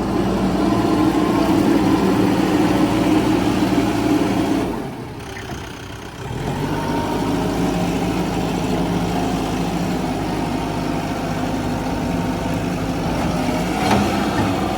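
Diesel engine of a Mahindra backhoe loader running steadily at work. The sound drops away briefly about five seconds in, then runs on, with a short tick near the end.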